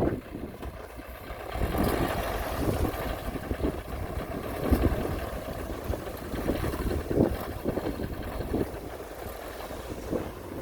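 Heavy earthmoving machinery engine running, with wind buffeting the microphone in irregular gusts.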